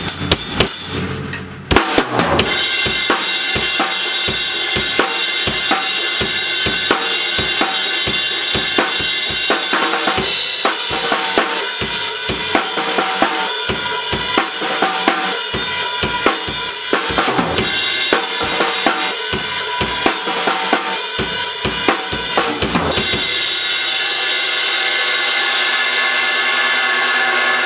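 Drums and cymbals played in a dense run of hits over a constant cymbal wash. About 23 seconds in, the low drum hits stop and the cymbals are left ringing out.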